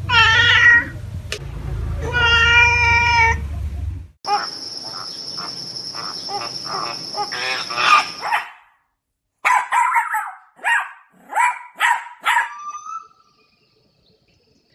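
A cat meowing twice in long drawn-out cries, followed by a busier stretch of animal calls under a steady high tone, then a run of about six short calls.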